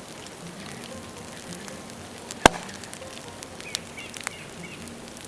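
Dry bamboo burning on a bonfire, crackling with scattered sharp ticks. About two and a half seconds in there is one loud, sharp bang, typical of a sealed bamboo section bursting in the heat.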